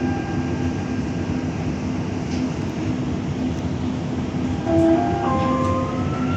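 Dubai Metro train running, heard from inside the car as a steady rumble. About five seconds in, a short chime of stepped tones sounds, and near the end a steadily rising whine comes in.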